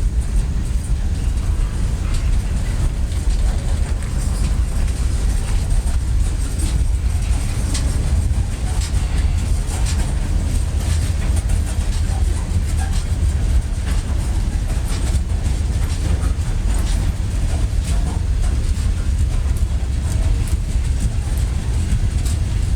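A freight train's cars rolling past: a steady, heavy rumble with scattered clicks from the wheels and rail joints.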